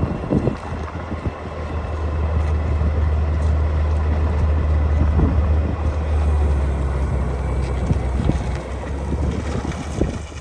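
A car engine's low rumble, building over the first few seconds and then holding steady, with wind noise on the microphone.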